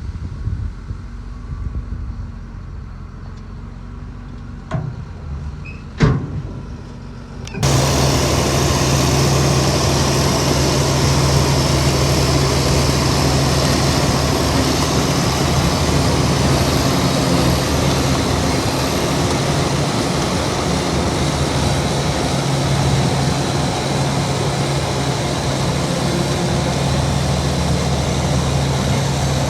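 A quiet low rumble with two short knocks, then about a quarter of the way in a heavy diesel engine comes in suddenly and runs loud and steady at a constant speed.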